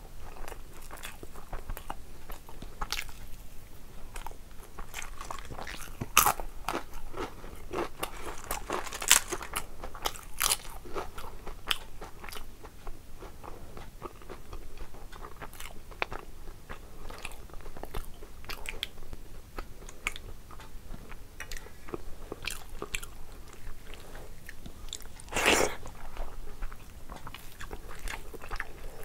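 A person chewing and crunching mouthfuls of rice and curry close to the microphone, with wet mouth clicks and sharp crunches throughout and several louder crunches, one of them near the end.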